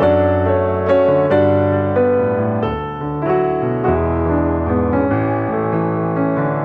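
Background piano music: gentle, sustained chords and notes struck in a slow, steady flow.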